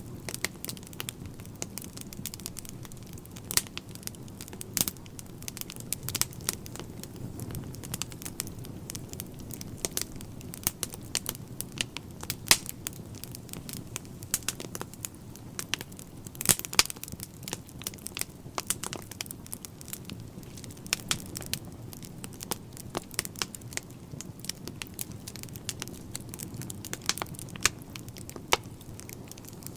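Wood fire in a fireplace crackling and popping: irregular sharp snaps over a soft steady rumble of flames, with a few louder pops, one about twelve seconds in and another a few seconds later.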